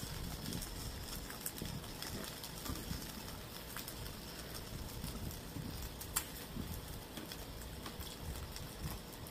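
Chewing with soft, irregular mouth clicks and smacks, over low handling rumble, with one sharper click about six seconds in.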